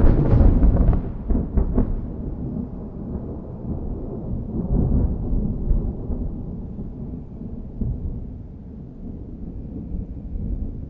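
Thunderclap: it breaks suddenly and loud, with sharp cracks in the first two seconds, then settles into a long low rumble that slowly fades.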